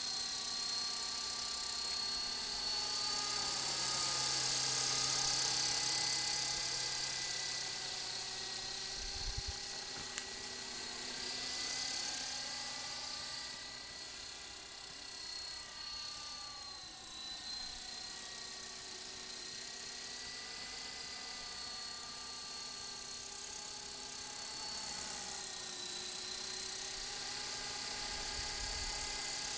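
Walkera LM3 coaxial electric RC helicopter in flight: its small motors and rotors whine and buzz steadily, the pitch slowly rising and falling as the throttle is worked.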